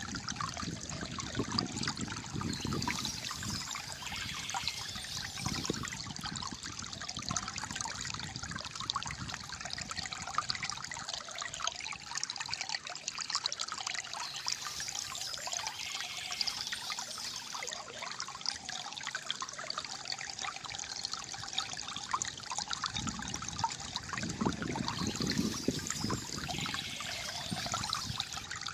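Calm flowing water gurgling and trickling steadily, with a deeper swell of the flow near the start and again near the end.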